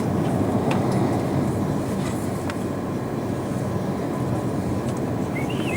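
Steady rumble of an Airbus A340-300 heard from inside the passenger cabin: engine and airframe noise with a rattling, even texture.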